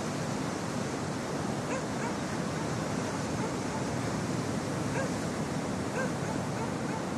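Steady wash of ocean surf, with a dog barking a few times, short barks faint under the waves, about two seconds in and again near five and six seconds.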